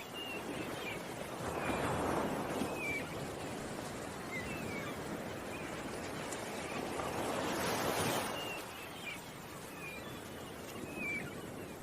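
Ocean waves washing in, the surf swelling twice, with small birds chirping in short, scattered calls.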